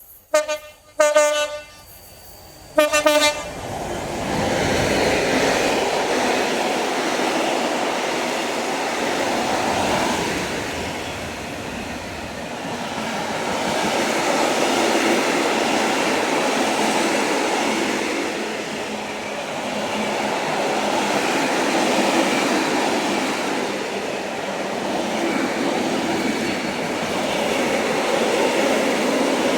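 A train sounds its horn in three short blasts, then passes at speed with a long, loud rushing of wheels on rail that swells and eases as the train goes by.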